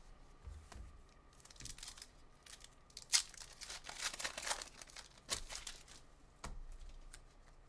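Trading-card pack wrappers being torn open and crinkled, with cards handled by hand, in a series of faint rustles and small clicks. A denser stretch of tearing comes a few seconds in.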